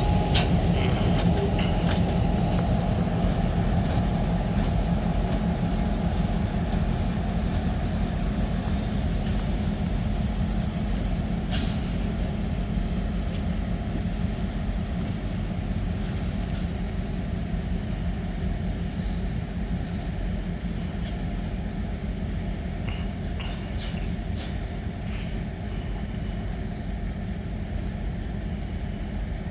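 Finger Lakes Railway freight train moving on the rails, a steady low rumble of diesel locomotive and cars that slowly fades, with a few faint short squeaks.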